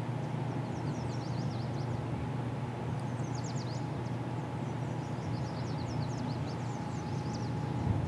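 Birds chirping in quick clusters of short high notes over a steady low background rumble.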